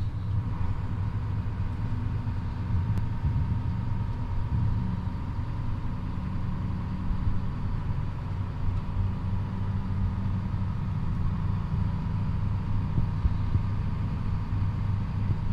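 Engine of a large car running steadily while it is driven: an even low rumble with a faint steady whine above it.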